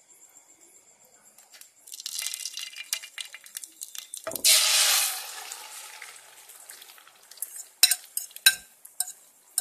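Hot oil crackling in a frying pan as small pieces go in, then a sudden loud sizzle about four seconds in as beaten egg and sausage mixture is poured into the oil, fading away over the next few seconds. Two sharp knocks near the end.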